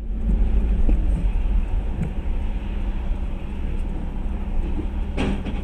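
Steady low rumble of a car driving, with one short, sharp knock near the end.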